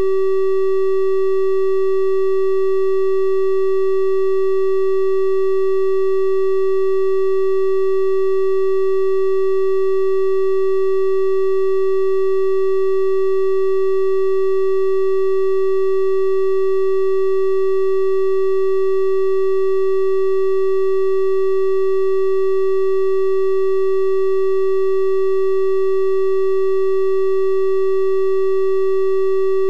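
Steady electronic test tone: a 384 Hz triangle wave, one unchanging pitch with faint overtones.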